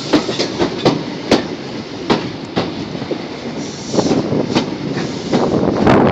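Passenger train running slowly over a single-track bridge, heard from on board: a steady rumble of wheels on rail with irregular sharp clacks as the wheels pass over rail joints.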